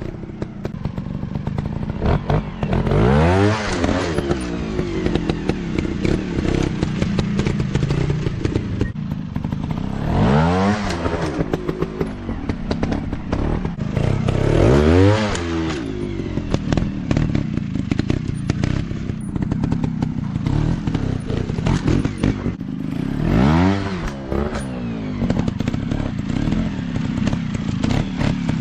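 Dirt bike engines running, revving up and dropping back in four rising-and-falling bursts over a steady running note, with clatter and knocks throughout.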